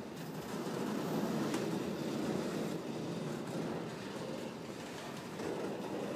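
Freight train's autorack cars rolling slowly along the track: a steady low rumble of wheels on rail, with a single sharp click about one and a half seconds in.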